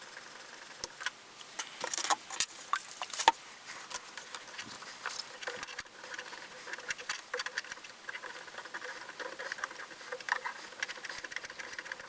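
Irregular light scratching and small clicks as a fingernail scrapes round the groove of a VHS recorder's belt pulley while the pulley is turned by hand, working out caked dirt and belt residue.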